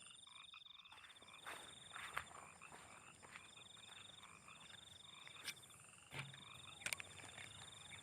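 Faint chorus of frogs calling in rain: a steady pulsed trill with scattered short croaks over a high continuous buzz. A few sharp clicks stand out about two seconds in and near seven seconds.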